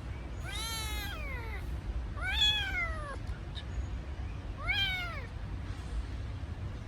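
A kitten meowing three times, each call rising then falling in pitch, over a steady low rumble: crying for its mother.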